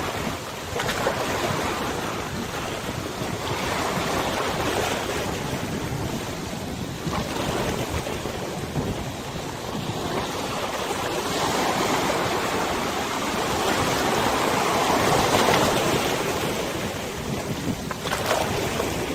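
Waves on a wide river washing and splashing in the wind, with wind on the microphone; the wash swells and eases every few seconds and is loudest about three quarters of the way through.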